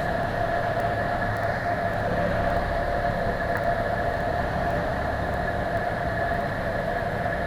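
Steady drone of a Cessna 172's piston engine and propeller heard inside the cabin, with rushing air noise and a constant whine, at reduced power on approach to land.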